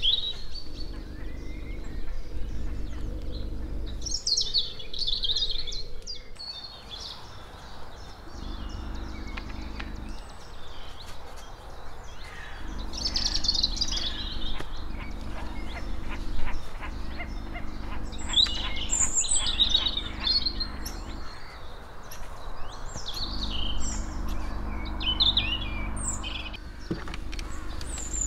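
Wild birds chirping and singing in scattered bursts, over a low steady hum that cuts in and out.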